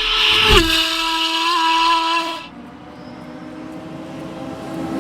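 Rally car engine at high revs. Its pitch steps down about half a second in, holds steady, then turns quieter a little past two seconds as the car goes on at steady revs.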